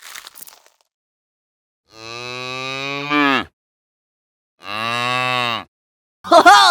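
Cattle mooing: three long moos in a row, each holding a steady low pitch and then falling away at its end.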